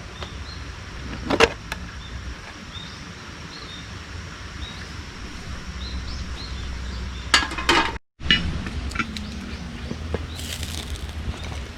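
Outdoor ambience with a steady low hum and faint, small high chirps repeating every half second or so. A sharp knock comes about a second and a half in, with brief clattering knocks near the middle and again near the end.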